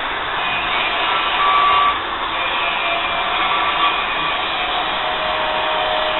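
A hand-held electric power tool running continuously with a steady whirring whine, briefly louder about a second in.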